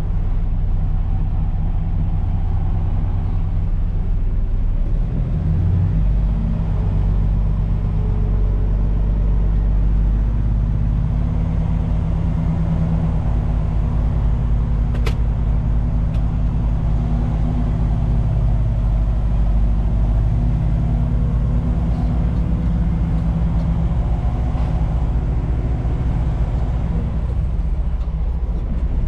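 Truck's diesel engine running steadily, rising in load and pitch about six seconds in, with a single sharp click about halfway through.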